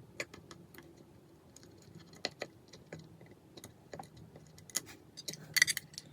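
Small metal tools and phone parts clicking and tapping during the disassembly of an iPhone 5s, in scattered single ticks with a louder cluster of clicks about five and a half seconds in.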